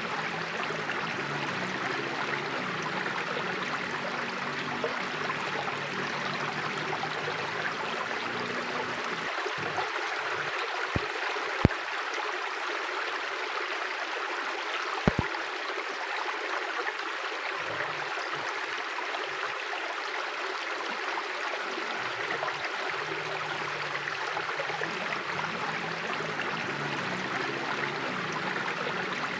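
Mountain river flowing gently: a steady, even rush of water. A few sharp clicks stand out near the middle.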